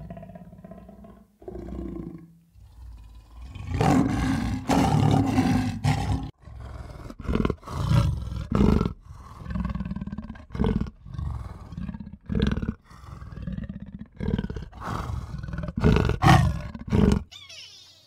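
A large animal roaring: a couple of quieter low calls, then, about four seconds in, a long loud roar followed by a run of shorter roars that stops about a second before the end.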